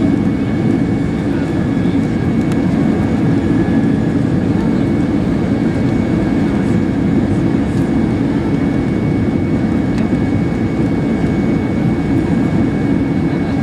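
Cabin noise of an Airbus A320-212 in flight, heard from inside the cabin: a steady, deep rumble of airflow and its CFM56 jet engines, with a thin steady whine above it.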